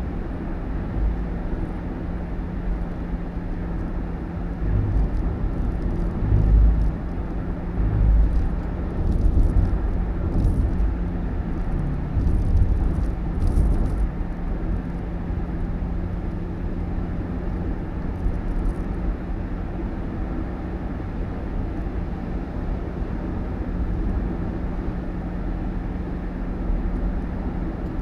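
Motor vehicle running: a steady low rumble with a constant hum, and a few low thumps in the first half.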